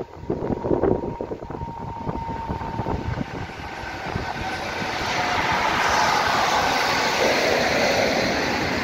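Freight train of tank wagons behind a Newag Dragon 2 (E6ACTab) electric locomotive passing close by. Wheels knock over the rail joints at first. From about five seconds in, as the locomotive and wagons go by, this turns into a louder, steady rush of rolling noise.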